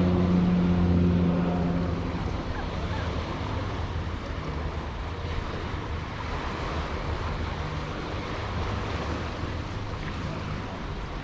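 Wind rushing over the microphone and surf on the shore during a bike ride along a seaside path. A steady engine hum fades away about two seconds in.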